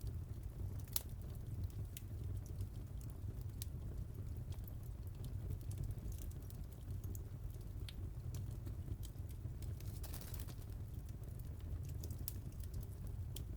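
Wood fire crackling in a fireplace: a low steady rumble of burning with scattered sharp pops and clicks, and a short hiss about ten seconds in.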